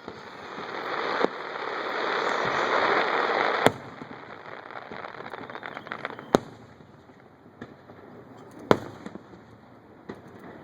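Fireworks going off: a hissing swell builds over the first few seconds and ends in a sharp bang. Two more loud bangs follow a few seconds apart, with a few smaller pops between them.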